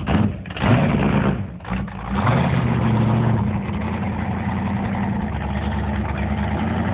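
A 489 cubic-inch big-block Chevy stroker V8 in a 1977 Tahiti jet boat, revved up and down a couple of times in the first two seconds, then settling into a steady idle.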